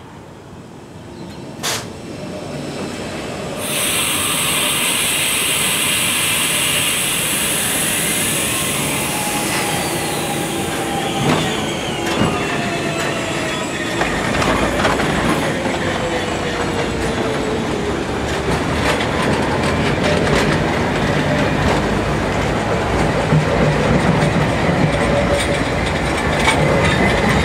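London Underground train running through the station, getting louder over the first few seconds with a sudden rise of hiss. Its wheels clatter and squeal on the rails, and a motor whine falls in pitch through the middle of the pass.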